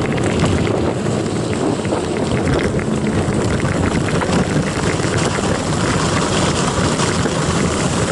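Wind rushing over the microphone of a camera riding on a moving mountain bike, a steady rumbling noise.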